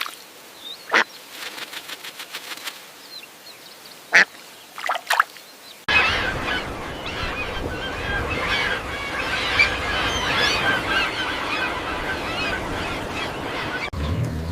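A few separate honking waterfowl calls, then, about six seconds in, a sudden switch to a dense chorus of many birds chattering over a noisy background that runs until just before the end.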